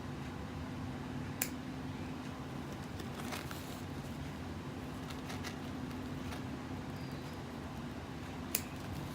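Steady low hum of room tone, with a few sharp clicks and taps: one about a second and a half in, fainter ticks in the middle, and another near the end.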